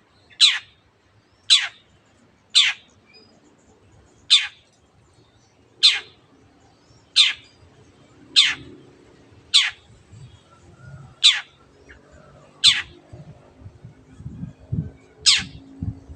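Long-tailed shrike (cendet) repeating a short, sharp call that sweeps steeply down in pitch, about one call every second or so, a dozen times. In the second half a low hum and soft low thumps come in beneath the calls.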